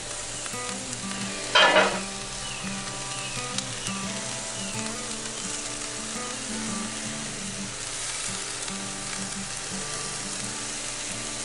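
Diced potatoes, sausage and onions sizzling steadily in a Lodge Blacklock cast iron skillet, with one short louder noise about a second and a half in.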